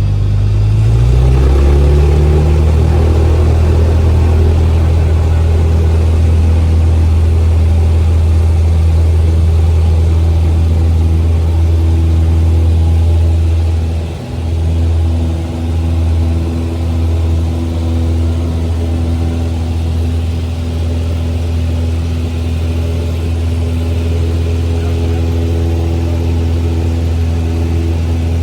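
Light aircraft's propeller engine running after start: its pitch rises about a second in, then holds steady, with a brief dip about halfway through.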